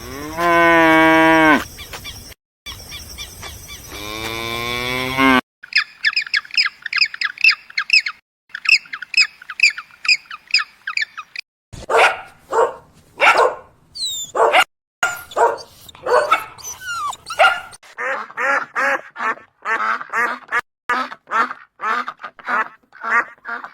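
A run of different animal calls, cut one after another. It opens with two long drawn-out calls. From about six seconds in comes several seconds of rapid high bird chirping, and from about twelve seconds in a long series of short repeated calls.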